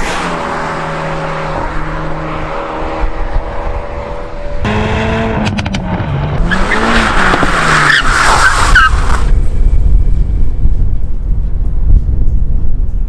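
Hyundai i30N's turbocharged four-cylinder engine running and revving, its pitch rising and falling. A high, wavering squeal comes in about six seconds in and lasts a few seconds. After that a loud low rumble takes over.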